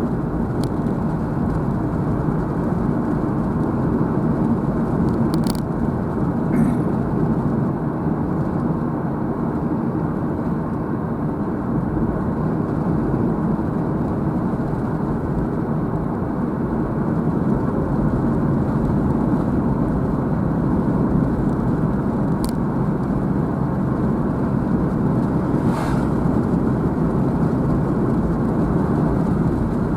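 A car driving along a road: steady engine and tyre noise, with a few brief faint clicks.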